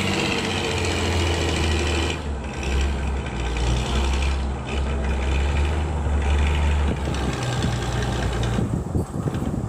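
Vehicle engine running steadily at idle, a low continuous hum.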